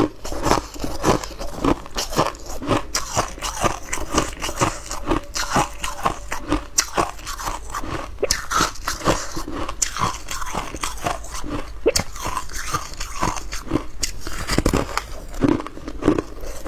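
Close-miked biting and chewing of hard clear ice: a dense, irregular run of loud crunches and cracks as the ice is crushed between the teeth.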